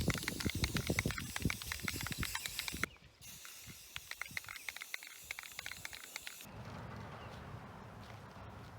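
Aerosol spray paint can spraying in two long hissing passes with a short break between them, stopping about two-thirds of the way through.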